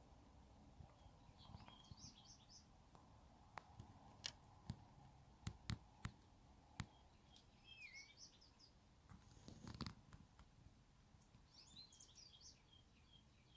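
Faint bird chirps in three short twittering clusters, with a run of about seven sharp taps in the middle that are louder than the birds, and a brief rustle just before the last chirps.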